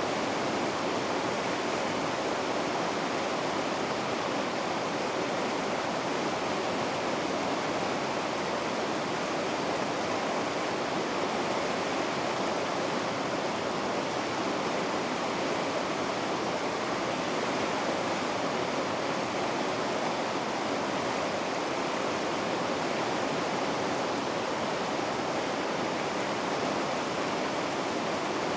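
Rapids on a river rushing steadily, a constant full hiss of white water with no change in level.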